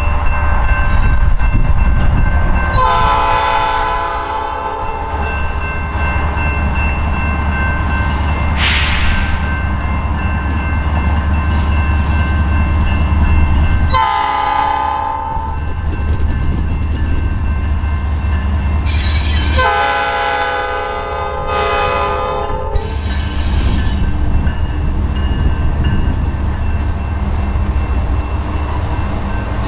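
Canadian Pacific diesel freight train passing, its lead locomotive sounding a multi-note chime air horn three times: a long blast a few seconds in, a shorter one about halfway, and another long one soon after. The low rumble of the diesel engines runs underneath, with a brief high hiss about nine seconds in.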